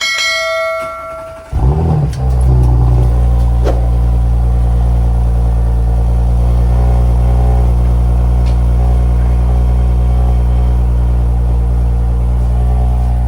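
A short electronic chime, then a car engine starting about a second and a half in, briefly flaring up and settling into a steady idle.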